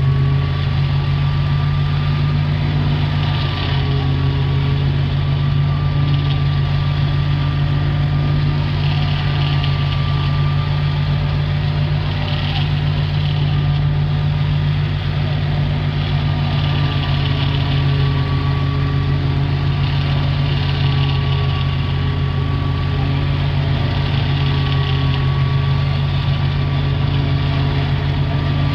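Ghazi tractor's diesel engine running steadily, driving a silage machine, with a thin steady whine above the engine note.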